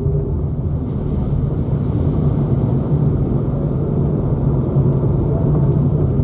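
Steady low rumble of a car's engine and road noise while driving, heard from inside the car.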